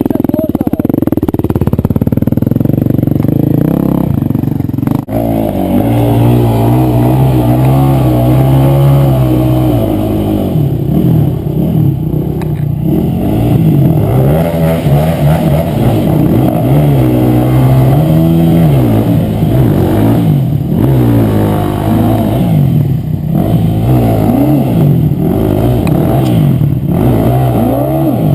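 Enduro motorcycle engines revving hard, their notes rising and falling again and again and overlapping, as the bikes work under load through a stream crossing.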